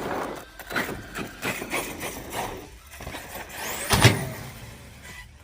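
Electric RC stunt truck driven hard on concrete: a run of short clatters and knocks, then its motor whine rising just before a loud landing impact about four seconds in.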